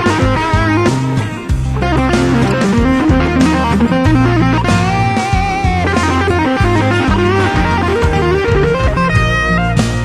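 1984 Ibanez Roadstar II electric guitar played with an overdriven tone: a bluesy lead line of held notes with vibrato and string bends, over a steady bass line.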